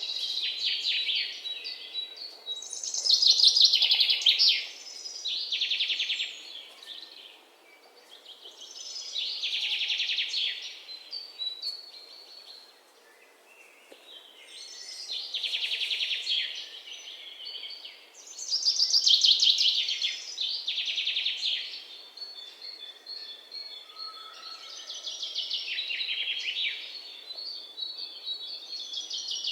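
Birds chirping in rapid trilled phrases, each a second or two long, repeating every few seconds over faint background noise.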